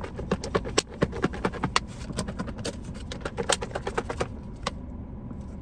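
Close-up chewing of a crisp lettuce salad: irregular crunches and wet mouth clicks, several a second, over a steady low rumble.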